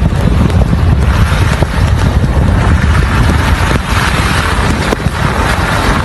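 Strong blizzard wind blowing on the microphone: a loud, steady roar with heavy low rumble and hiss.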